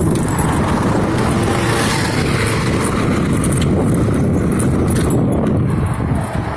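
A vehicle engine running steadily close by.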